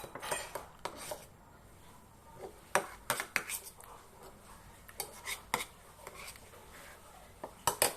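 Utensils clinking and scraping against a dish or cup, in several scattered groups of short sharp clicks.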